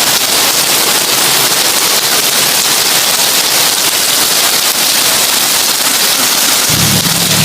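Heavy rain drumming steadily on a tin roof, a dense crackling patter. Near the end a low humming rumble comes in underneath.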